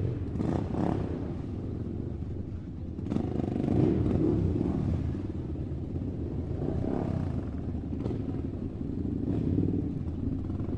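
A motor running steadily, with some clatter and a few louder swells.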